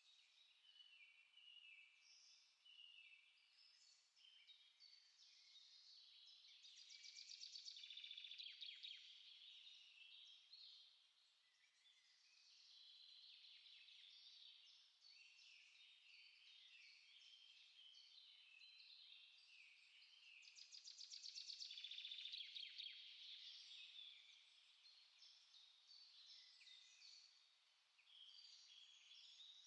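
Faint chorus of small songbirds singing over each other in many short, high chirps and trills. The chorus swells twice, about a quarter of the way in and again past two-thirds of the way through.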